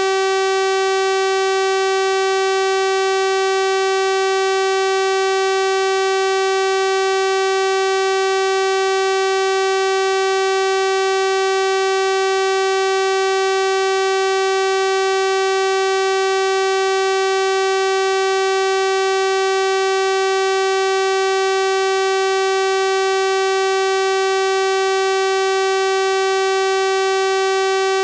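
Synthesized 384 Hz sawtooth-wave tone held steady, a buzzy electronic drone rich in harmonics.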